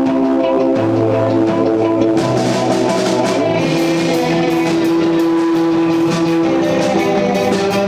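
Rock music with electric guitar and a drum kit playing at a steady loud level; the drums come in more strongly about two seconds in.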